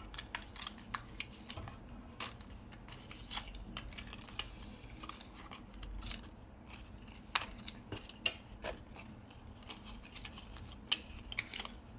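Craft pen knife cutting through paper: a run of short, irregular clicks and scrapes as the blade cuts a row of small slits.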